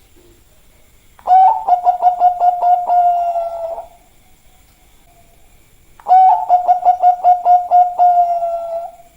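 Zebra dove (perkutut, Bangkok type) cooing: two song phrases a few seconds apart, each a quick run of staccato coos that runs into a longer held note that fades.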